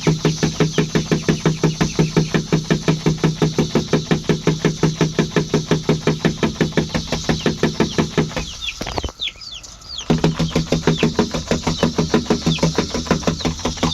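Cicadas buzzing close by in a fast, even pulsing of about five or six pulses a second, which breaks off briefly about two-thirds of the way through. Chickens give short, falling chirps now and then.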